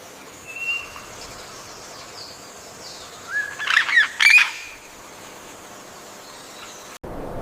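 Bird calling: a short high whistle under a second in, then a quick burst of chirps and squawks with rising and falling notes about three to four seconds in, over a steady faint hiss.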